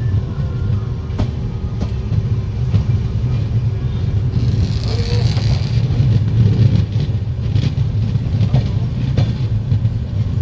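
Train running on the track: a steady low rumble with a few sharp clicks of wheels over rail joints, and a brief hiss about halfway through.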